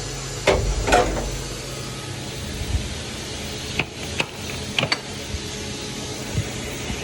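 Steady hum of a running CNC machine, with a loud mechanical clatter about half a second in and a few sharp clicks and knocks around four to five seconds in.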